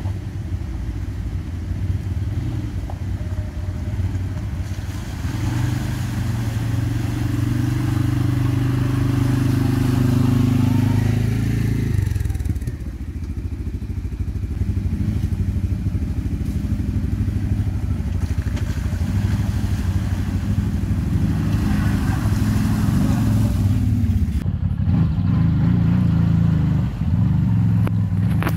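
ATV engine running off-road. Its pitch rises and falls with the throttle, with sudden changes about twelve seconds in and again near the end.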